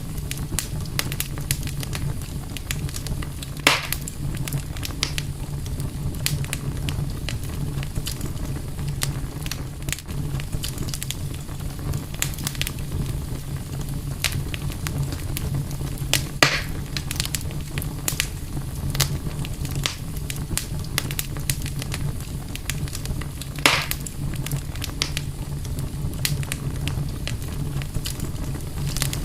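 Campfire crackling, with frequent small snaps and three louder pops spread through, over a steady low rumble.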